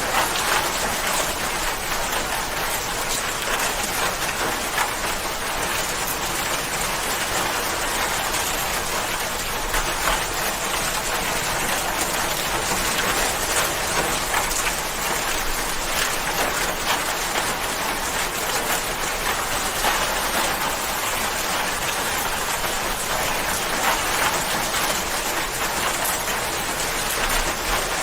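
Steady rain falling, a dense, even hiss of drops with many fine individual drop ticks.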